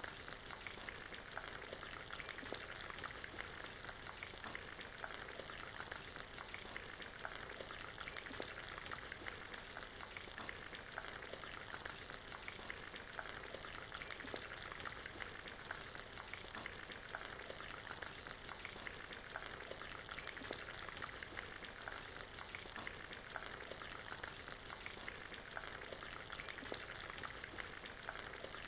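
Ambient rain mixed with a crackling fireplace: a dense, even hiss of rain with many small crackles from the fire, steady throughout.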